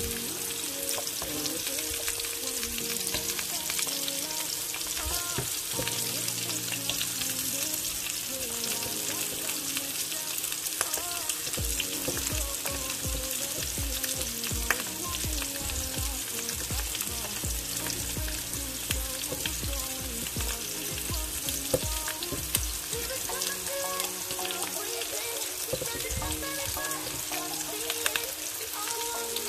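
Squash, eggplant, onion and garlic sizzling steadily as they sauté in hot oil in a frying pan, with a few sharp clicks.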